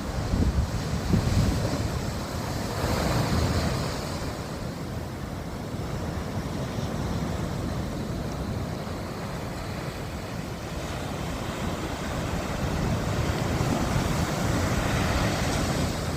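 Sea surf washing in on the shore in slow swells, with wind buffeting the microphone.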